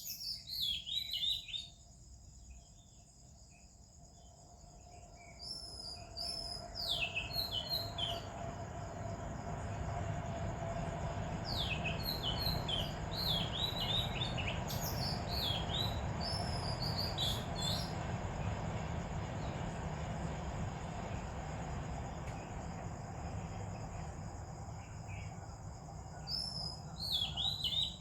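Oriental magpie-robin singing in repeated bursts of varied whistles and sweeping notes, over a steady high drone of insects. In the middle a low rumble swells up and fades away again.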